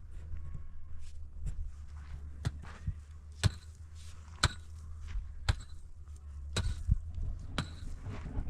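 Sharp knocks struck roughly once a second, over a steady low rumble.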